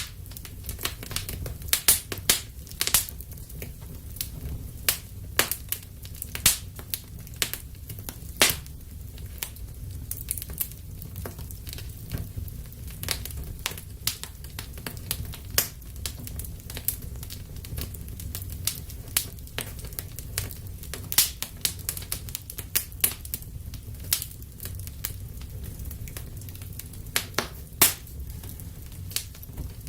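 Wood fire burning in a fireplace: frequent sharp crackles and pops at irregular intervals over a steady low rumble of the flames.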